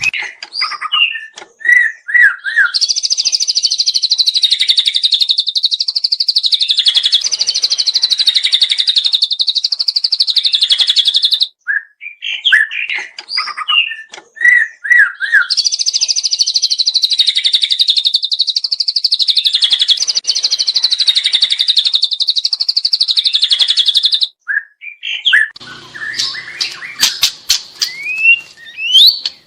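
Juvenile white-rumped shama (murai batu) singing: a few short whistled notes, then a long, fast, buzzing trill lasting about eight seconds. The same pattern repeats once more. A few sharp clicks sound near the end among scattered notes.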